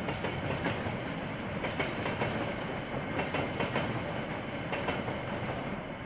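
A KiwiRail freight train's wagons rolling past, the wheels clacking over rail joints in irregular knocks over a steady rumble of running noise.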